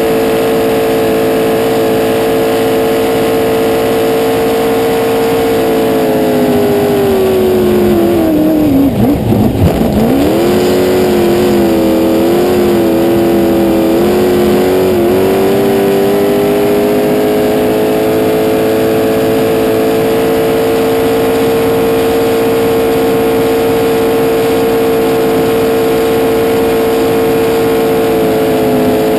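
V8 race boat engine on E85 with fuel injection, running flat out at high, steady revs. About eight seconds in the revs drop sharply and come straight back up, wavering for several seconds before settling to a steady pitch again.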